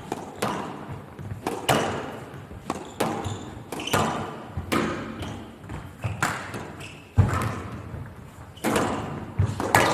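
Squash rally: the ball cracking off rackets and walls in sharp, echoing hits about twice a second, with one heavier thud about seven seconds in.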